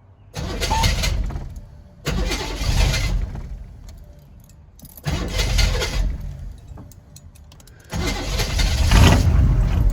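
Straight-piped Dodge truck engine being cranked again and again. Four times it catches with a sudden loud burst that dies away within a second or two, without ever settling into running. The owner suspects water in the fuel.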